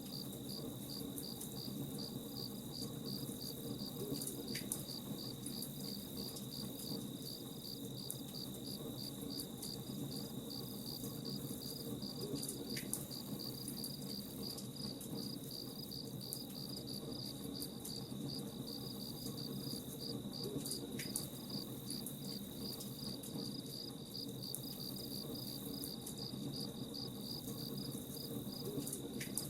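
Crickets chirping in an even rhythm, about two chirps a second, over a steady high insect trill and a continuous low rumbling hiss.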